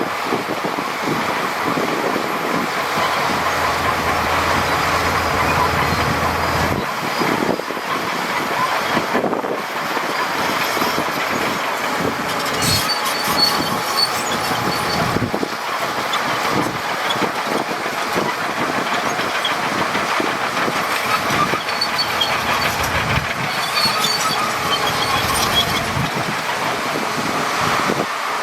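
Crawler bulldozer working, its diesel engine running under load while its steel tracks clank, with short high-pitched squeals now and then.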